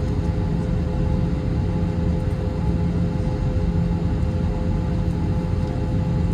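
Steady low rumble with a constant hum from an Airbus A321 being pushed back, its engines not yet started.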